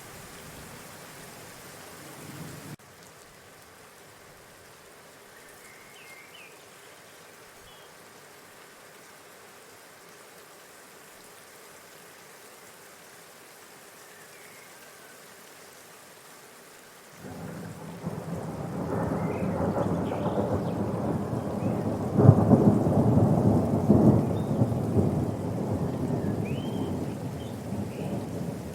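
Outdoor ambience at a bird feeder: a steady faint hiss with a few faint short bird chirps, then a loud, rough low rumble that comes in suddenly about two-thirds of the way through and swells before easing off near the end.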